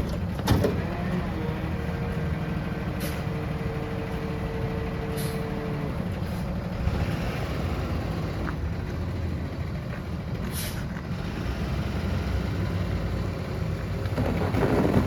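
Rear-loader garbage truck running, with a steady whine over the engine that stops about six seconds in. A few short, sharp sounds come through along the way.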